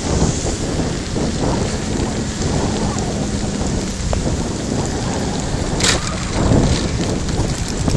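Wind buffeting the microphone while cycling: a heavy, steady rumble over a constant hiss, with one sharp click about six seconds in.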